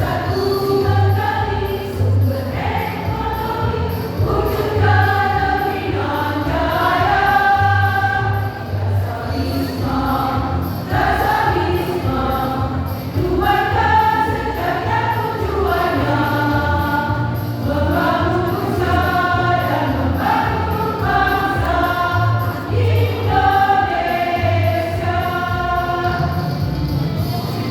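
Choir singing a song together in phrases, over instrumental backing with a regular bass line.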